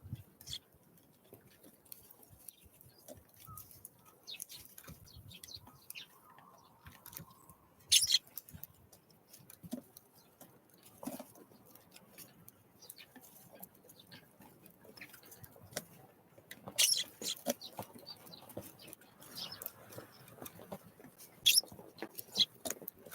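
Small wild birds pecking and tapping, an irregular scatter of light taps with a few short high chirps; louder knocks come about 8, 17 and 21 seconds in.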